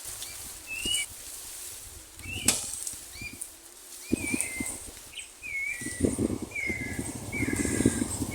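Birds calling outdoors: a series of short, curved whistled chirps repeated every half second or so. A low buffeting noise joins about four seconds in and grows louder toward the end.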